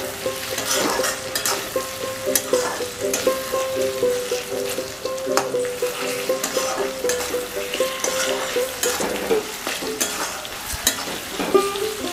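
Flat metal spatula stirring and scraping a tomato, green-chilli and onion-paste masala frying in mustard oil in a steel kadai, with a steady sizzle and irregular clinks and scrapes of metal on the pan. The tomatoes are cooking down into the masala.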